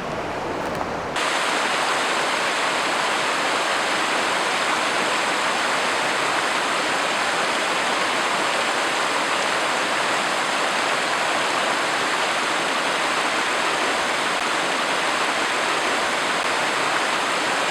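Steady rush of running river water; about a second in it jumps to a louder, closer rush that then holds even.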